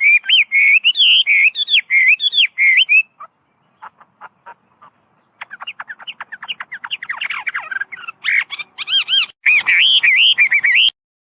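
Chinese hwamei (melodious laughingthrush) singing: loud whistled notes that slide up and down in quick succession. About three seconds in there is a short pause with a few soft clicks, then a fast run of notes builds back into loud whistles that stop abruptly near the end.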